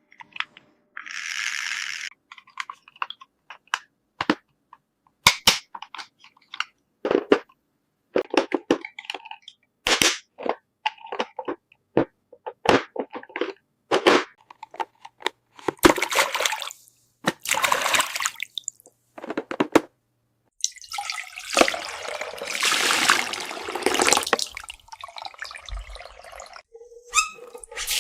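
Small plastic toy pieces clicking and tapping, then water running in stretches: briefly about sixteen seconds in and again for about four seconds from twenty-one seconds, with taps between.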